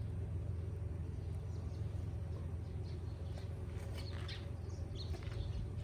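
A steady low rumble, with a few short high bird chirps a few seconds in.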